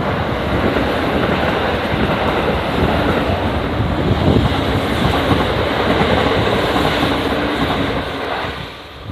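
Electric commuter train passing on the line, its running noise steady for about eight seconds and then fading away near the end.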